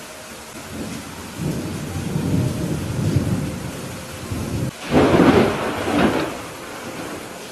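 Thunderstorm with steady rain. Thunder rumbles and builds over a few seconds, then a loud crack about five seconds in rolls off over the next couple of seconds.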